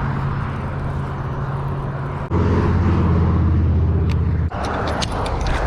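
Car engine running with road noise while driving, a steady low hum and hiss that changes abruptly twice.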